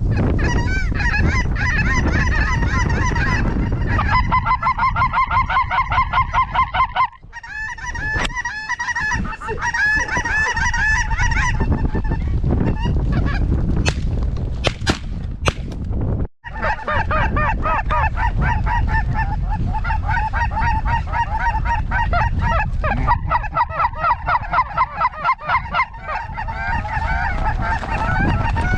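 Dense chorus of lesser snow geese calling and honking, many birds at once, with stretches of fast, regular pulsing calls. Wind rumbles on the microphone underneath, and the sound drops out briefly twice.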